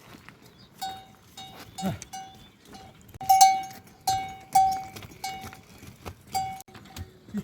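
A livestock bell clanking irregularly on a moving animal: one ringing metal tone struck a dozen or so times at uneven intervals, loudest a little over three seconds in.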